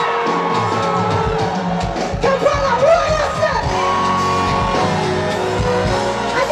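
Live Afrobeats band music played loud through a concert sound system, with singing voices and shouts over it.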